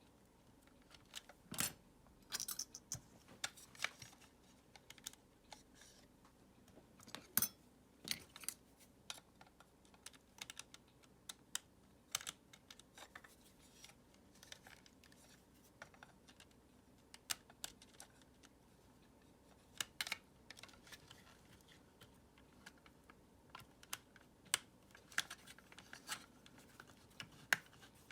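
Irregular clicks and taps of the plastic parts of a Dyson vacuum cleaner being handled and worked on during disassembly, with a few sharper knocks.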